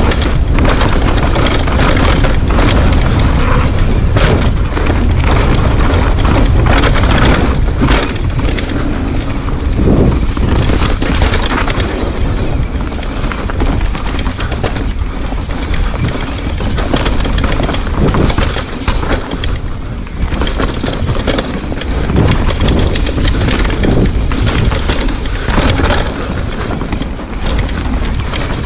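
Wind buffeting the microphone in strong gusts: a loud, continuous rumble that swells and dips unevenly.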